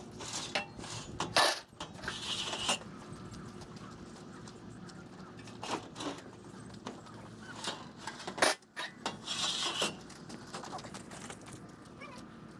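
Metal parts and hand tools being handled on a truck chassis: scattered clinks and knocks, with a louder knock about a second and a half in and another about eight and a half seconds in, each followed by a short scraping hiss.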